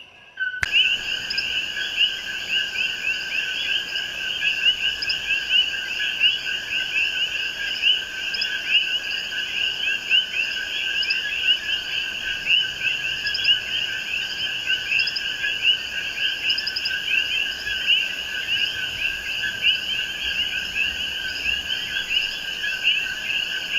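A dense night chorus of many coquí frogs calling at once: a steady, overlapping stream of short chirps that rise in pitch. It starts abruptly after a brief silence at the start.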